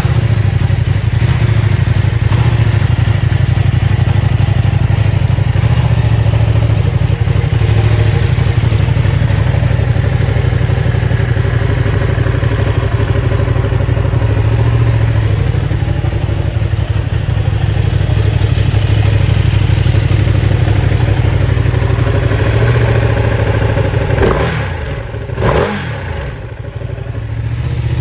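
Ducati Panigale V2's 955 cc Superquadro twin-cylinder engine idling steadily, with two quick throttle blips near the end that rise and fall in pitch.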